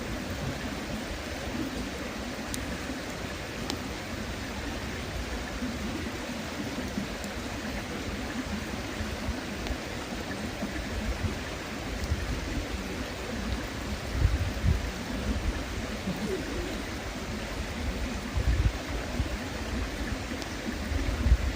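River water flowing steadily, with a few faint clicks in the first few seconds. Irregular low rumbles come and go from about the middle onward.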